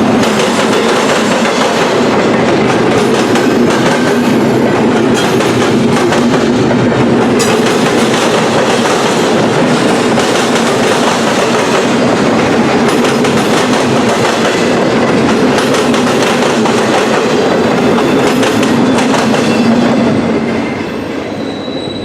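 Freight train cars rolling past close by, a steady loud rumble of wheels on rail with clickety-clack over the joints, growing quieter near the end.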